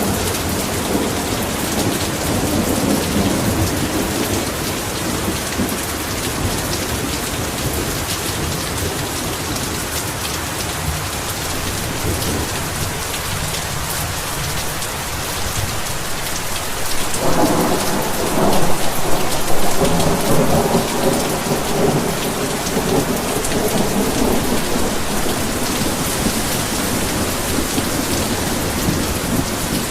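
Heavy rain falling steadily, with a rumble of thunder rolling in a little past the middle and fading over a few seconds.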